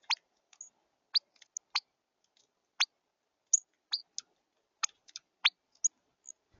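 A wild bird giving a series of short, sharp chip calls, each note dropping steeply in pitch, irregularly two or three a second.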